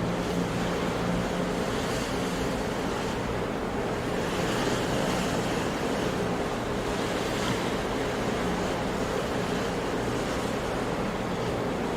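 Sea waves washing onto a shore in a steady, continuous surf, swelling a little about four to five seconds in and again a few seconds later.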